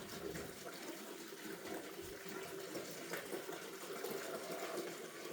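Hot water running steadily from a tap into a container.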